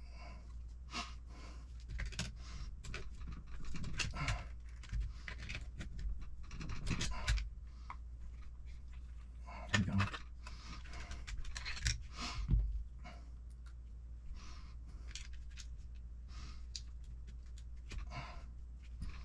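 Small parts of an RC truck kit being handled and fitted by hand: scattered clicks, taps and rustling, with a few sharper knocks, over a steady low hum.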